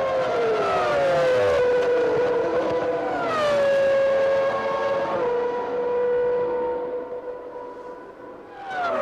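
Formula One car engines at racing speed, a high pitched note that drops sharply three times and holds steady in between, as cars pass by at speed.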